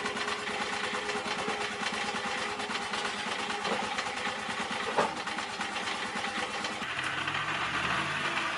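A running engine with a fast, even mechanical clatter. There is a sharp click about five seconds in, and near the end the sound changes as a lower hum comes in.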